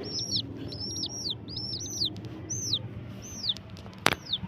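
Baby chicks peeping: short falling peeps, in quick runs of two or three at first and then thinning to single peeps. There is one sharp click about four seconds in.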